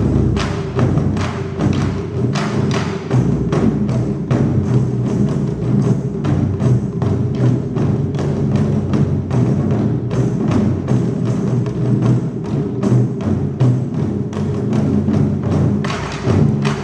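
Taiko drum ensemble playing: rapid, unbroken drumming with many strokes a second.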